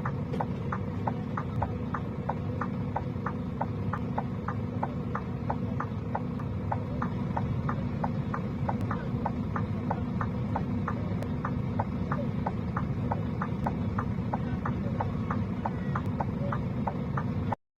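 A vehicle's hazard-light relay ticking evenly, about two and a half clicks a second, over a steady low engine-and-road rumble; it all cuts off suddenly near the end.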